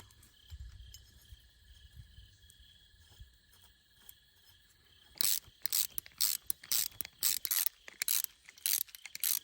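Ratchet wrench being worked in quick strokes, a burst of crisp clicking with each swing, two to three bursts a second, starting about halfway through.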